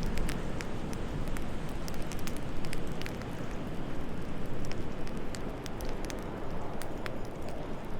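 Wood fire crackling, with many small sharp pops scattered irregularly over a steady low rumble of wind.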